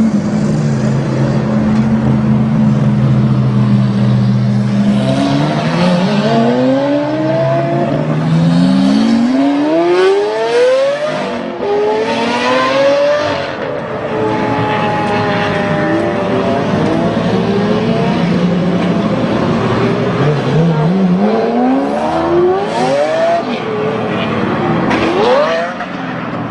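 Lamborghini engine idling steadily, then revved hard again and again from about five seconds in, its pitch climbing and dropping with each rev.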